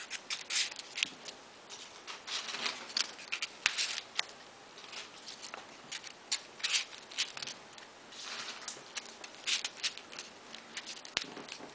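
Folded paper pieces of a modular origami model being handled and pushed into place: irregular short paper rustles and light crisp clicks.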